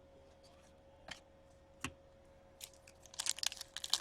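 Two light clicks, then crinkling and crackling from about two and a half seconds in, as trading card packs and cards are handled and opened.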